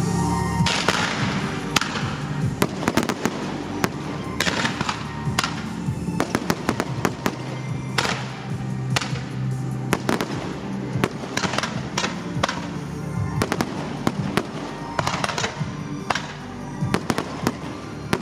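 Fireworks display: repeated sharp bangs and several crackling, hissing bursts of aerial shells over a music soundtrack played with the show.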